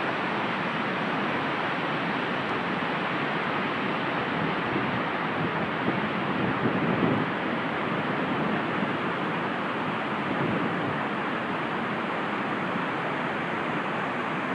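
Steady rushing roar of Dynjandi waterfall's falling water, swelling briefly in its lower rumble about halfway through.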